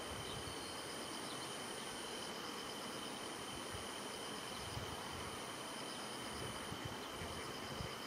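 Summer insects calling steadily: a continuous high-pitched buzz with a second, still higher one above it, and a faint chirping that pulses in a regular rhythm.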